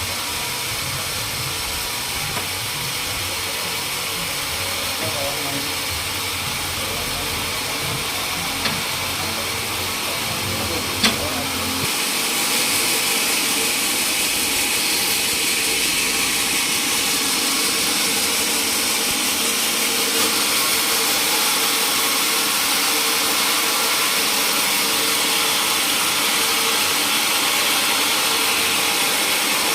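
Sawmill machinery running steadily with a hissing, noisy sound. A sharp click comes about eleven seconds in, after which the sound turns higher and a little louder.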